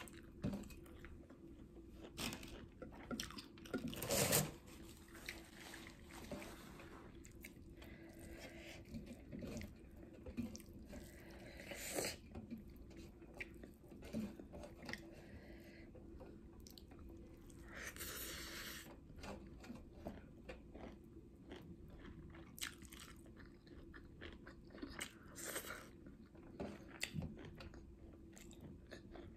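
Close-miked chewing and crunching of a mouthful of rice, pork and greens, with irregular wet clicks and bites; the loudest crunching burst comes about four seconds in.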